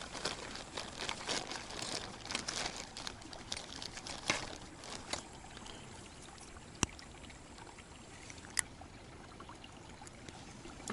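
Faint water trickling and dripping with irregular crackles and rustles, as a freshly caught roach is handled and unhooked. Two sharp clicks stand out in the second half.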